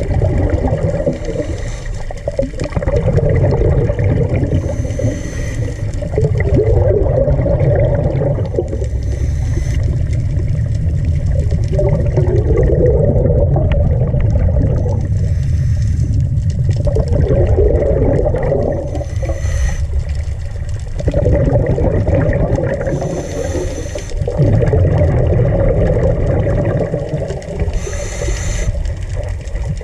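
Loud churning and bubbling water, rising and falling in surges every few seconds.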